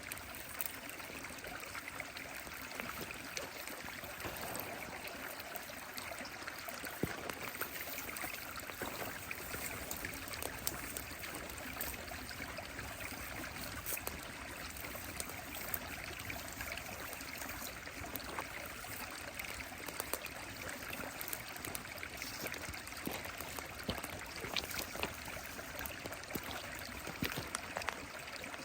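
A stream flowing and trickling steadily, with a wood fire crackling over it in scattered sharp pops.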